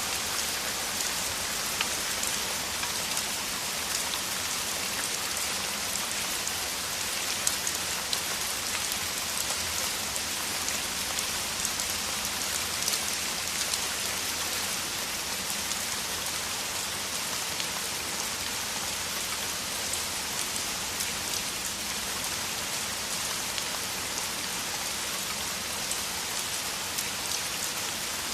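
Heavy rain falling steadily, a dense hiss of rain with many individual drops ticking on surfaces.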